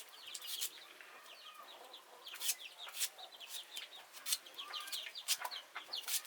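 Chickens clucking, with many short falling peeps, mixed with frequent sharp clicks and knocks.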